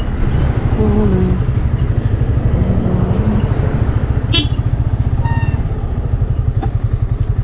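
Motorcycle engine running with a steady, even low throb, with a sharp click a little past the middle.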